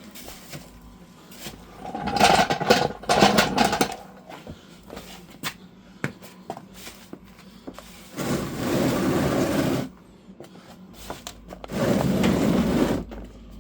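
Gear being moved and slid across the floor: a clattering stretch about two seconds in, then two scraping sounds of a second or two each, one near the middle and one near the end.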